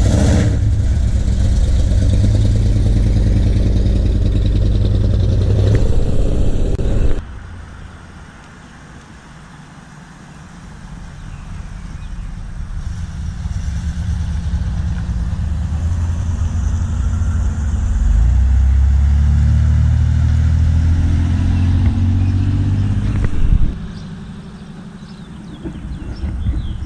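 Car engines running close by: one loud engine that cuts off suddenly about seven seconds in, then another car's engine growing louder as it comes near, its pitch rising, and dropping away again near the end.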